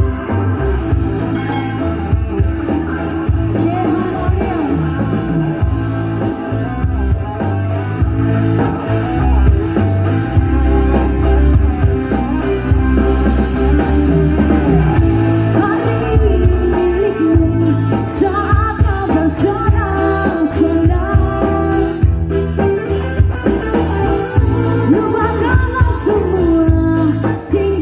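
A song with singing and strong bass, played back through a Rockley 15-inch active speaker under test.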